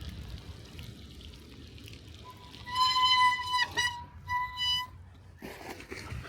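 A high-pitched steady tone sounds twice: a long note of about a second and a half, a click, then a shorter note. A low rumble runs underneath.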